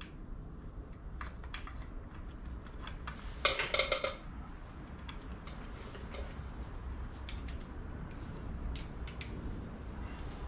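Metal tools and engine parts clinking and clanking as they are handled, with a short louder clatter about three and a half seconds in.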